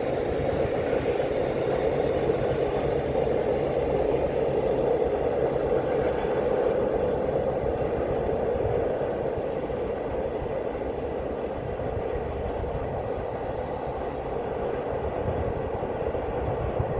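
Freight train of container wagons rolling along an elevated concrete viaduct: a steady rumble of wheels on rail that eases slightly in the second half as the train draws away.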